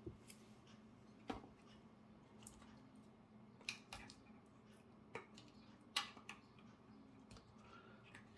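A handful of faint, short clicks and snips from cutting and handling a small piece of Kapton tape, over a low steady room hum.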